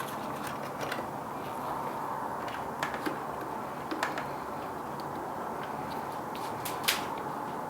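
Scattered light metallic clicks and taps as a screwdriver and a motor mount screw are worked against the grinder's motor mount, hunting for the screw hole, over a steady low hum.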